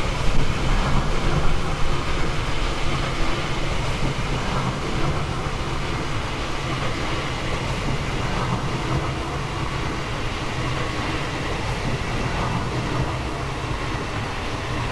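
Passenger train running on the rails: a steady rumble of wheels and track with light clatter, easing off slightly toward the end.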